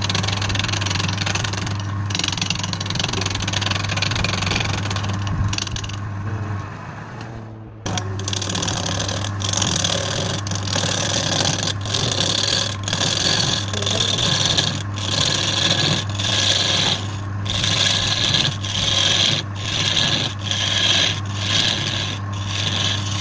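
Wood lathe running with a steady hum while a tool scrapes against the spinning wood. After a brief break about eight seconds in, the scraping comes in regular strokes, a little more than one a second.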